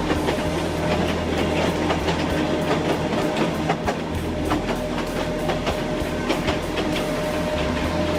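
Kurobe Gorge Railway narrow-gauge trolley train running, its wheels clicking over the rail joints over a steady rumble, with a steady hum and a thin whine.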